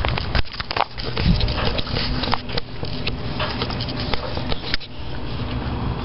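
Brush and twigs rustling and crackling underfoot and against the body as someone pushes back through a tight overgrown spot, with many irregular sharp snaps.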